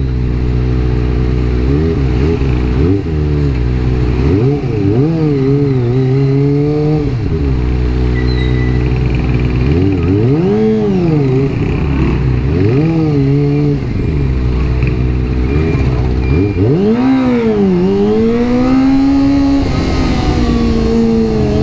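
Kawasaki ZX-25R's 250 cc inline-four engine revving up and falling back again and again under short throttle blips while riding at low speed, its pitch swinging up and down in quick swells, with a deeper dip and climb about two-thirds of the way through.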